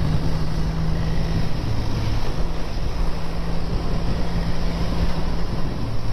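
BSA A10 650 parallel-twin motorcycle running at steady road speed, its low engine note shifting slightly, under heavy wind rush on the camera microphone.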